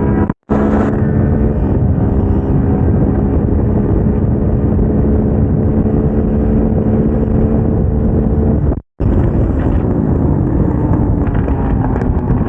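Single-cylinder engine of a KTM 690 SMC-R supermoto heard onboard, held at a steady pitch under load with wind rush on the microphone. The sound cuts out briefly twice, near the start and about two-thirds through, and the engine note then falls slowly as the rider eases off.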